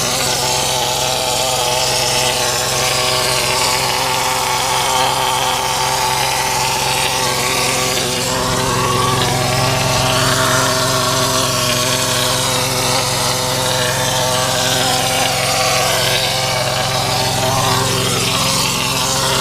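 Engine-driven concrete pump running steadily at a constant pitch during shotcreting, with a steady hiss over the top.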